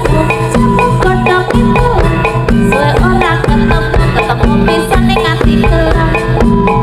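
Javanese jaranan gamelan music played loud through a PA sound system: drums and struck metal keyed instruments in a fast, steady, repeating rhythm.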